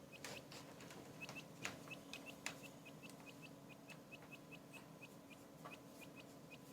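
Newly hatched quail chick peeping faintly, a quick run of short, high chirps several times a second, with a few soft clicks.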